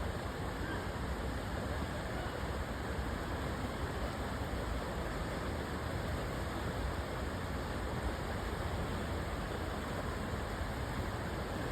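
Steady rushing of river water, an even noise with no distinct events.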